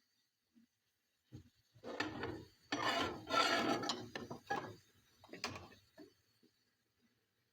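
Irregular scraping and rustling for a few seconds, loudest in the middle, then a short last burst before it stops.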